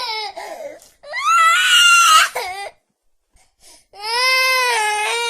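A baby crying in long, drawn-out wails, with a pause of about a second midway before the next wail.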